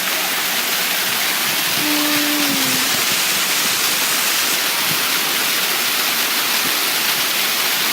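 Waterfall water rushing, a steady loud roar heard close up. A faint short call from a person sounds about two seconds in.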